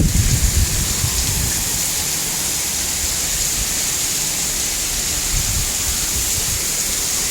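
Windstorm outdoors: a steady, even rushing hiss, with low gusts of wind buffeting the microphone for about the first half second.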